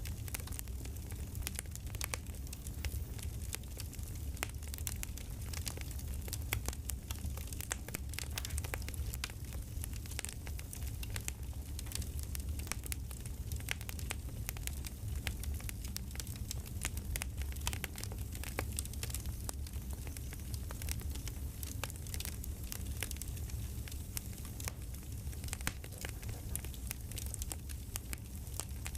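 Campfire crackling: frequent sharp, irregular pops and crackles over a steady low sound of the flames.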